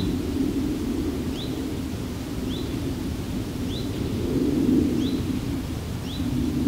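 A bird repeating a short, rising call about once every second, over a low steady rumble that swells twice in the second half.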